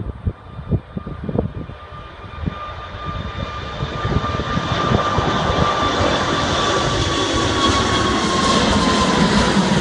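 Airbus A380's four Rolls-Royce Trent 900 jet engines at takeoff power: a rushing roar that grows louder over the first five seconds and then holds, with a high whine slowly falling in pitch. Wind buffets the microphone in the first couple of seconds.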